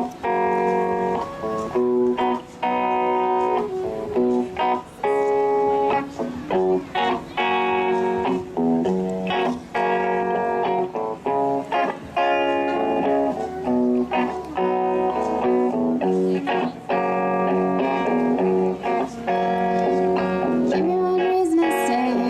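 Live band playing an instrumental blues passage, guitar to the fore over bass and drums.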